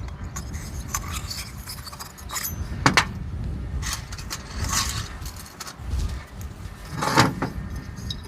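Metal tools and parts clinking and scraping as they are handled during scooter engine repair work, with several sharp clinks over a low rumbling background.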